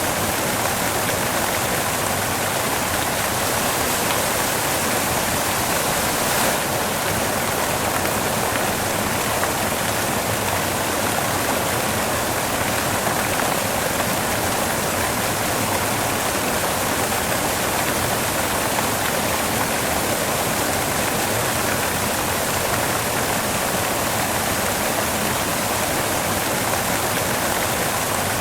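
Steady white noise: a constant, even hiss with no change in level.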